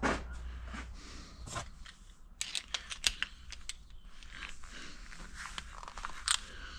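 Hands working small metal fittings and O-rings: light clicks, taps and scrapes, with a quick run of clicks a couple of seconds in.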